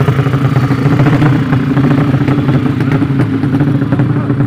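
Motorcycle engine running at a steady speed, its note holding level without revving up or down.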